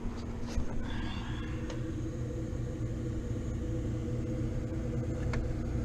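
Three-phase AC compressor running with a steady hum and low rumble, a few faint clicks over it. The technician takes it for single-phasing: one of the three supply wires, the center one, is partially burned and disconnected.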